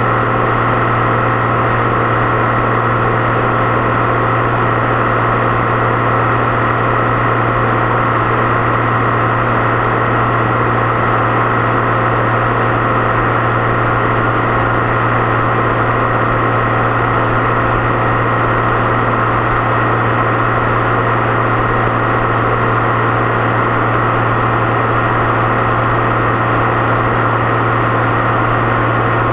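Deutz-Fahr 6.61 tractor engine running at a steady speed on the road, with a steady turbocharger whistle over the engine hum. The pitch does not change.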